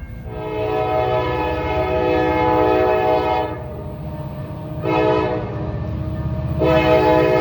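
Locomotive air horn sounding a chord in three blasts: a long one, a short one about five seconds in, and another long one starting near the end, the pattern of a grade-crossing signal. The diesel locomotive's engine rumbles steadily underneath.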